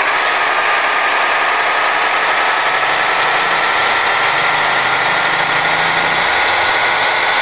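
Truck engine running steadily, with a steady whine over the engine noise.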